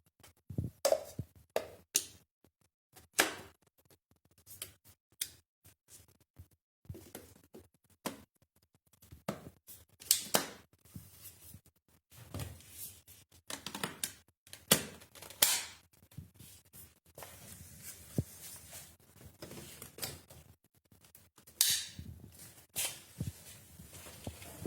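Irregular clicks, knocks and rustling from handling a cordless stick vacuum cleaner and its parts, the kind of sounds made while fitting the attachments together before it is switched on.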